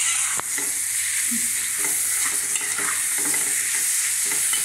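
Chopped bitter gourd, onion and tomato frying in hot oil in a metal kadai, sizzling steadily while being stirred and scraped around the pan, with a sharp knock of the utensil against the pan about half a second in.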